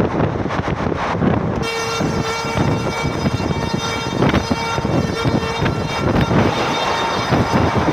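Train horn sounding one steady, held note for about four seconds, starting a couple of seconds in, over a continuous rumbling noise.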